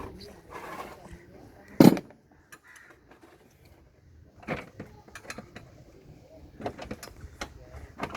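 Scattered clicks and light knocks of things being handled, with one loud knock about two seconds in.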